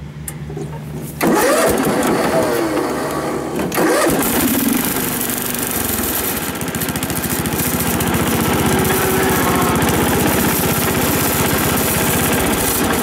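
Riding lawn tractor's small engine starting: it catches and comes up loudly about a second in, surges again near four seconds, then settles into a steady run.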